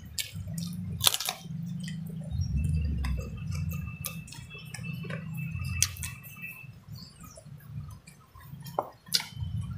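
Close-up eating sounds: chewing with wet mouth clicks and lip smacks as rice, fish and raw cucumber are eaten. A few sharp clicks stand out, the loudest about a second in.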